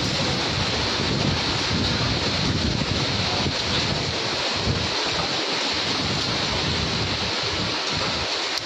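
Heavy rain and hail pelting down in a steady, dense hiss, with wind gusting on the microphone as a low, uneven rumble.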